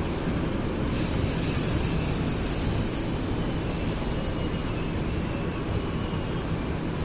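Passing train, its steel wheels squealing against the rails: a high, thin squeal comes in about a second in and fades out near the end, over a steady low rumble.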